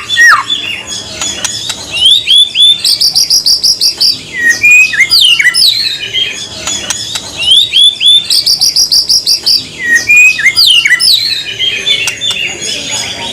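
White-rumped shama song: loud down-slurred whistles and rapid high trills in a varied sequence, the same run of phrases played twice as a masteran training track.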